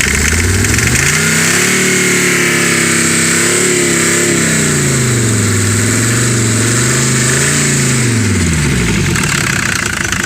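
Mercedes-Benz W126 diesel engine running on fuel fed from a bottle, revved up about a second in, held at raised revs with some wavering, then dropping back to idle near the end.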